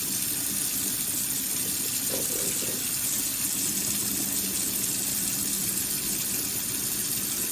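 Water running steadily into a kitchen sink, an even rush with a faint low hum underneath.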